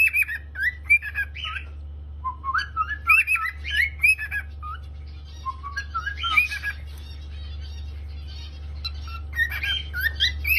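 Pet cockatiel singing: phrases of quick, gliding whistled notes in four bursts with short pauses between, over a steady low hum.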